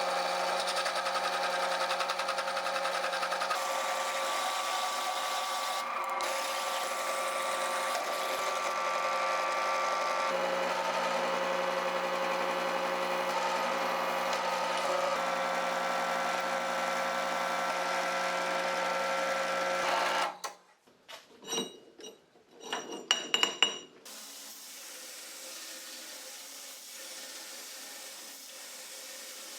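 Electric power tool motor running steadily for about twenty seconds, then stopping. A few sharp clicks and rattles follow, then a quieter steady hiss.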